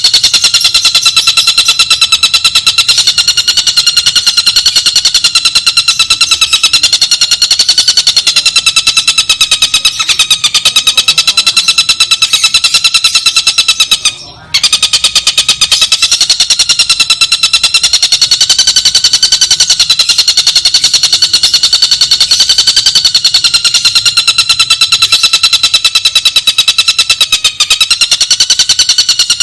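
Recorded songbird master track: a fast, unbroken, high-pitched chattering trill that repeats evenly, with a brief break about halfway through. It is made for training caged birds such as the white-rumped shama.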